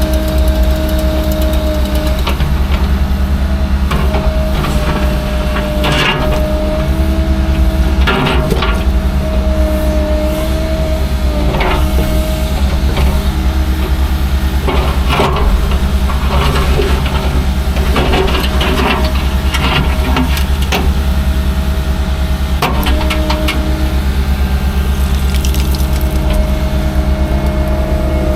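Heavy construction equipment's engine running steadily with a constant whine, under repeated knocks, clanks and scraping.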